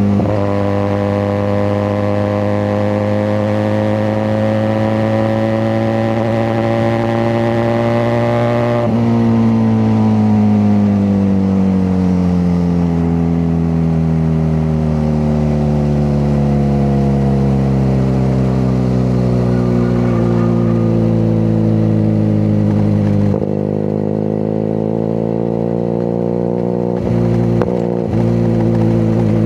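QJ Motor SRK 400 parallel-twin engine and exhaust under way: the engine note rises slowly under steady throttle for about nine seconds, then falls steadily as the bike slows on a closed throttle. About twenty-three seconds in the note changes abruptly and drops in level, like a gear change, with brief dips near the end.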